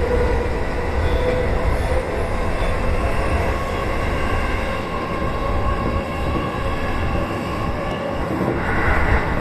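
Electric commuter train running between stations: a steady rumble of wheels on rails with a steady whine from the running gear. A brief hissing brightening comes near the end.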